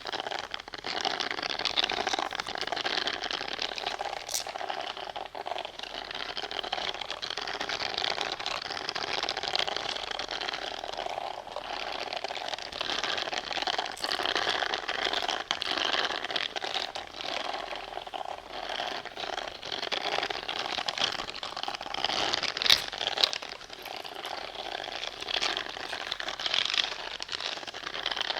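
Close-miked ASMR trigger sounds: a dense, continuous scratching and crinkling rustle with many small clicks scattered through it.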